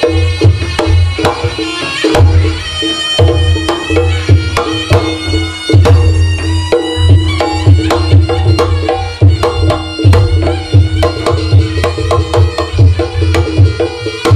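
Loud traditional Javanese music for dancing: rapid, driving hand-drum strokes with deep thuds, over steady pitched percussion and a high melodic line.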